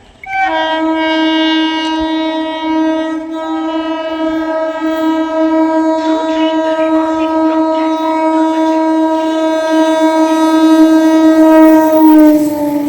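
A suburban local train's horn sounding one long, steady blast lasting about twelve seconds, its pitch dipping slightly near the end.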